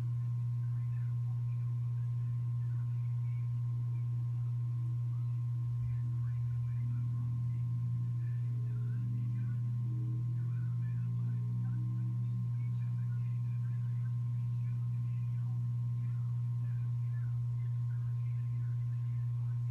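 Rain lamp's small oil pump humming steadily, a single low hum, with faint scattered dripping of oil running down the monofilament lines.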